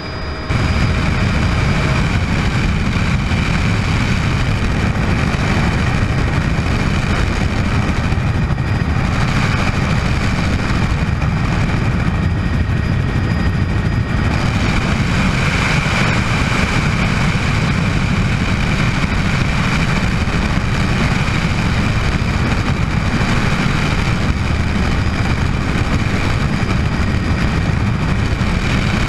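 Bell 206 JetRanger helicopter running steadily, a loud continuous noise of turbine and rotor with a deep rumble and a higher whine, starting abruptly about half a second in.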